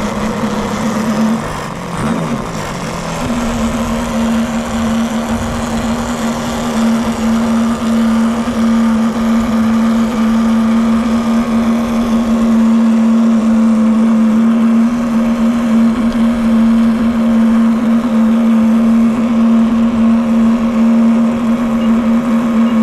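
Model airplane engine running at a steady high pitch, dipping and sagging briefly about two seconds in, then holding steady again.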